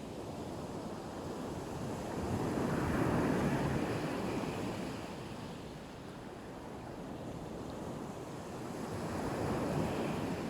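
Black Sea waves breaking on the shore, a steady wash of surf that swells as a wave comes in about two seconds in and again near the end, with some wind on the microphone.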